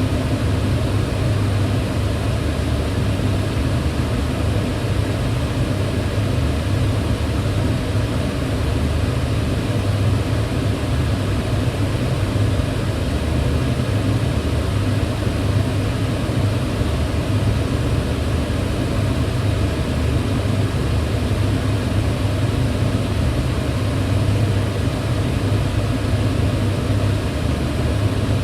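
Kitchen range hood running steadily: a constant fan rush with a low hum underneath and no changes.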